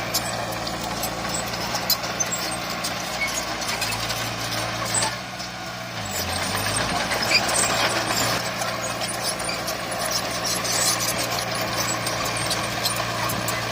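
Heavy diesel earthmoving machinery running steadily. The engine note drops briefly about five seconds in, then comes back louder, with scattered sharp clatters over it.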